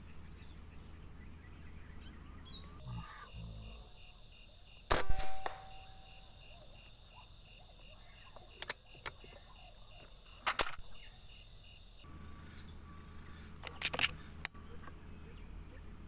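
An air-rifle shot about five seconds in, a sharp crack with a short ring after it, followed by a few sharper clicks around nine to eleven seconds and two more near fourteen seconds. The shot downs the third green pigeon of the hunt.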